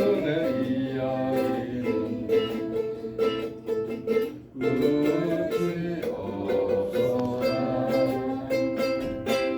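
Ukulele strummed in a steady rhythm, accompanying a singing voice, with a short break in the strumming about halfway through.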